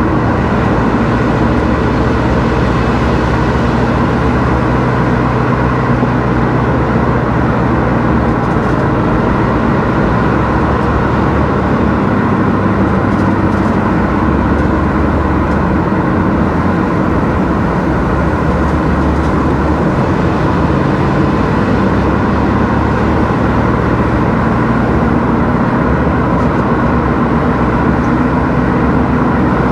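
A car driving at steady speed: a constant engine hum with road and tyre noise, unchanging throughout.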